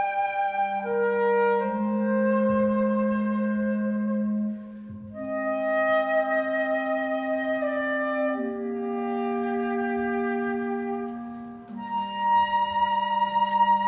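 Woodwind trio of flute, C clarinet and B-flat clarinet playing slow held chords: a low clarinet note sustained under higher flute and clarinet lines. Brief breaks between phrases come about five and twelve seconds in.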